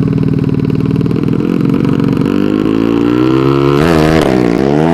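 130 cc-class drag motorcycle engine, on its first tuning run, running steadily, then revved up, its pitch climbing from about two seconds in and swinging up and down in quick blips near the end.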